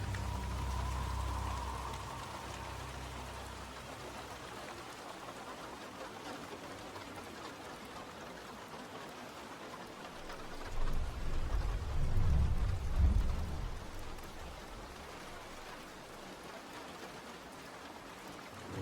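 Steady rain falling, with a low roll of thunder rumbling for a few seconds about halfway through.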